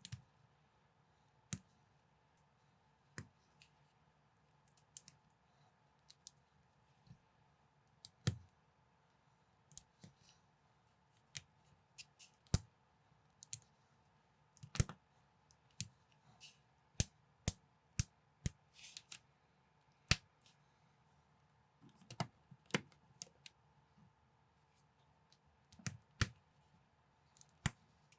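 Plastic building bricks clicking and snapping together as they are assembled by hand, in sharp single clicks at irregular intervals, now and then two or three in quick succession.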